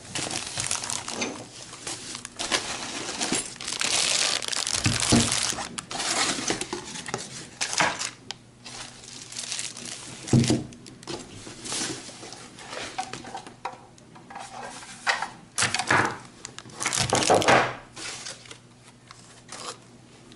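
Plastic packaging crinkling and tearing as items are unwrapped by hand, with irregular knocks and clatters of hard objects being handled and set down.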